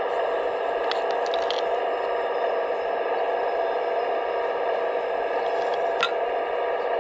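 Radio-controlled construction model's electric motor and hydraulic pump whining steadily at an even pitch, with a few light clicks and clatter about a second in and one sharp click about six seconds in.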